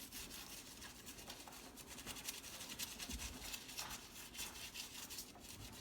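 Toothbrush bristles scrubbing soapy etched metal, a quiet, rapid scratchy brushing.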